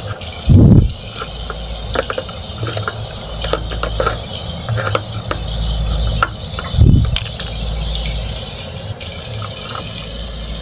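Light clicks and taps of plastic toy kitchen utensils against a toy frying pan and stove, over a steady low hum, with two loud low thumps about half a second in and again near seven seconds.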